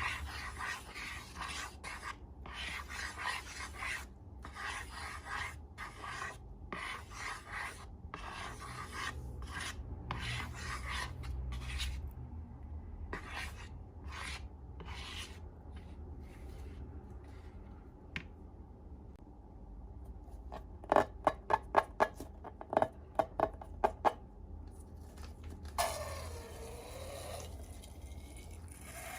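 Slime being worked by hand, with repeated rubbing, squishing strokes through the first half. These thin out, and then a quick run of sharp, loud clicks follows about three quarters of the way in.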